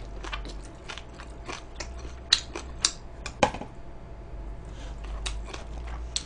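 Close-up chewing and biting of crispy fried chicken: irregular crunches, with three sharper, louder cracks in the middle.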